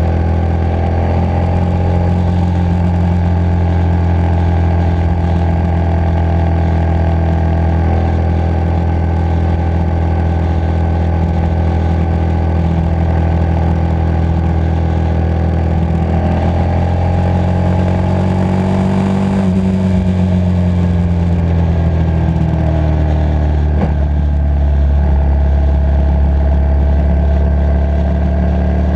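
Motorcycle engine running steadily under way. About two-thirds of the way through, the revs climb for a couple of seconds and then ease off again.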